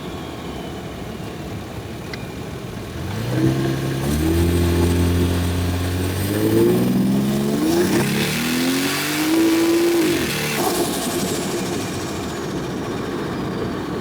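Single-turbo 1JZ straight-six in a Toyota Soarer accelerating hard, its engine note climbing in steps through a few gear changes with rising intake and turbo hiss. The throttle shuts abruptly about ten and a half seconds in, leaving a high whistle that falls away as the car settles back to cruising.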